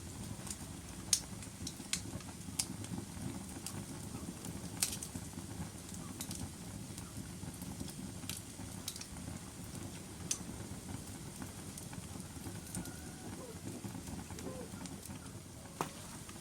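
Wood logs burning in a fireplace: a steady low rumble of flame with scattered sharp crackles and pops, the loudest about a second in and again around five seconds.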